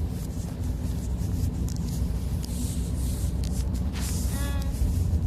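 Steady low rumble of a car heard from inside the cabin, with a brief voice-like sound near the end.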